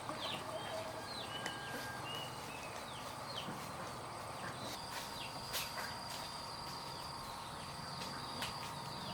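Small birds chirping: many short, quick downward-sliding chirps, with a steady high-pitched tone joining about five seconds in and a few sharp clicks.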